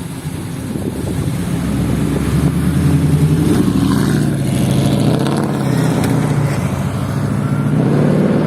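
Supercar engine revving, its pitch climbing, easing off, then rising again near the end.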